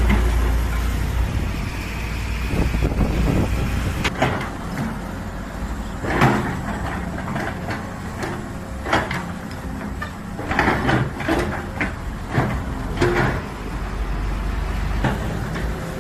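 Excavator running with a steady low engine rumble, broken by irregular metallic clanks and squeaks every second or two.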